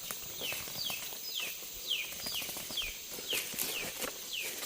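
A bird calling: a quick series of short whistled notes, each sliding down in pitch, about two or three a second, with faint clicks and rustles underneath.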